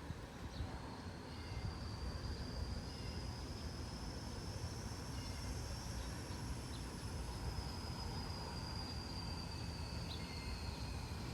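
Wind buffeting the microphone with a low, uneven rumble. Over it, a thin, steady high insect buzz starts about a second in, rises slightly in pitch and eases back down, and stops near the end.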